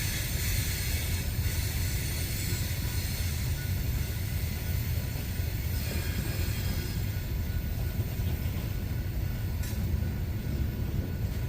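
Loaded coal train's hopper cars rolling past: a steady heavy low rumble of wheels on rail, with a faint high squeal from the wheels over it.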